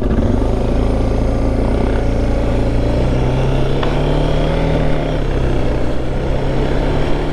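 Motorcycle engine running at steady cruise while riding, its drone rising slightly in pitch a few seconds in, with wind and road noise over it.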